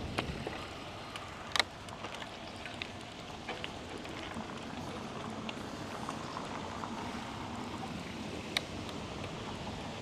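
A bicycle rolling along, with a steady hiss of tyre and wind noise broken by sharp clicks and light rattles from the bike. The loudest clicks come about one and a half seconds in and again near the end.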